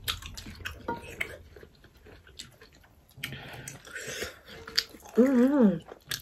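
Close-miked chewing, lip-smacking and small wet mouth clicks of people eating by hand. Near the end, a short wavering voiced sound.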